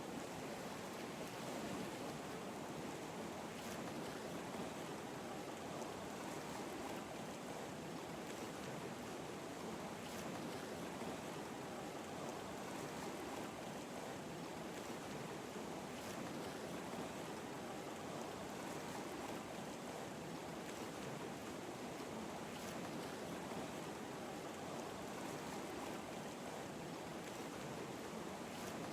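Ocean waves: a steady, even wash of surf.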